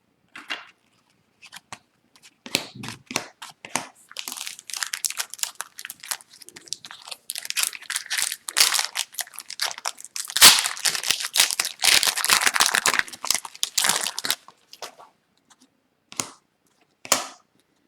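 Foil wrapper of a hockey card pack crinkling and tearing as it is opened and handled, a dense crackle that peaks in the middle and then trails off into a few light clicks.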